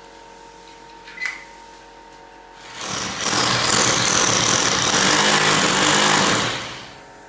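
A handheld power tool runs loudly for about four seconds, starting a little under three seconds in and winding down near the end, with a faint high whine in it. A single sharp click comes about a second in.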